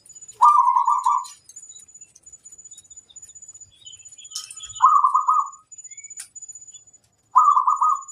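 Zebra doves (perkutut) singing: three rapid trilling coo phrases, each about a second long, a few seconds apart. A faint steady high-pitched whine runs underneath.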